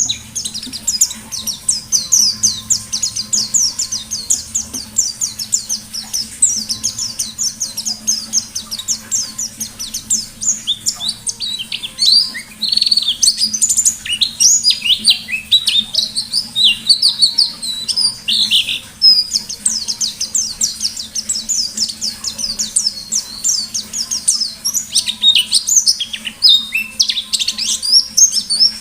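White-eye (pleci) singing in a loud, fast, unbroken stream of high twittering chirps and short sweeping notes.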